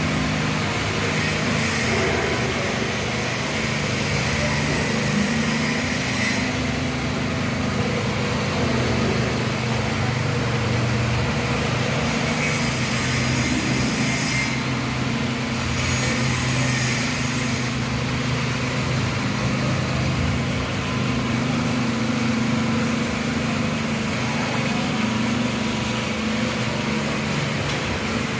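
Engine of a power trowel running steadily as it smooths a freshly poured concrete floor, with small shifts in its pitch now and then.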